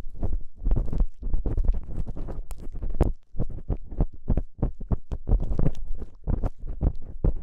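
Ear-cleaning ASMR on a microphone: an ear pick scraping and rubbing in quick strokes, several a second, with crackly scratches over a low, rubbing rumble.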